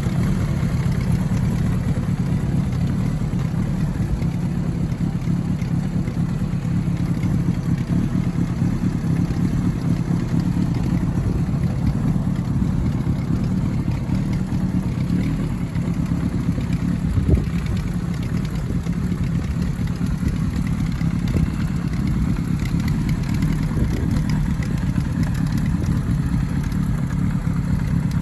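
Kawasaki Zephyr 750's air-cooled inline-four idling steadily through a Nitro Racing Grenade titanium V3 silencer with its baffle removed, giving a louder, more open exhaust note. There is one brief louder spike about 17 seconds in.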